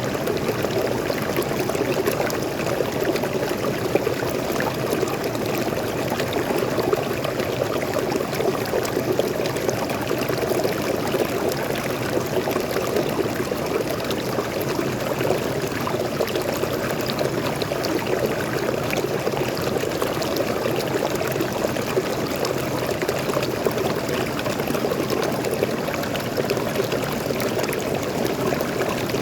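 Waterfall and forest stream: fresh water pouring and flowing in a steady, unbroken rush.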